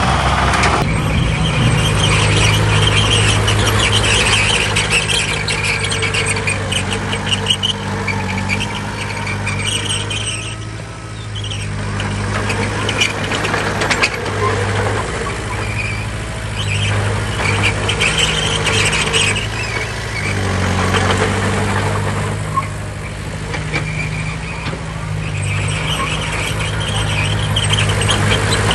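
Heavy diesel earthmoving machine, most likely a bulldozer, working under load. The engine hum rises and eases twice, with high metallic squealing and clanking from steel crawler tracks over it.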